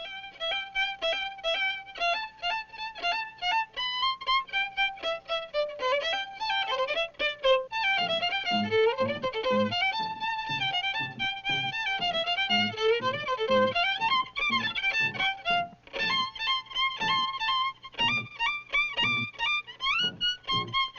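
Quick, lively fiddle dance tune from a cartoon score, its melody moving in fast running notes. A steady low bass beat joins about eight seconds in.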